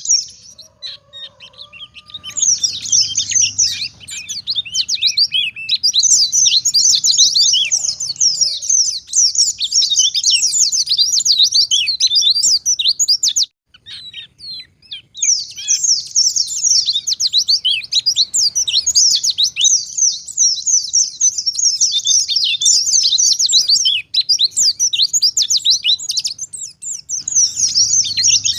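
White-eye (pleci) singing a fast, continuous high twittering warble, breaking off briefly about a second in and again around halfway before resuming.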